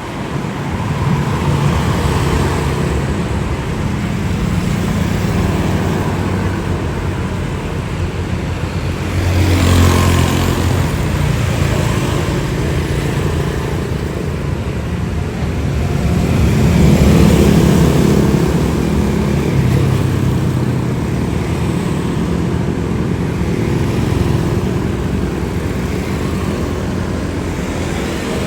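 Steady engine noise that swells twice as something passes close, once about a third of the way in and again a little past halfway.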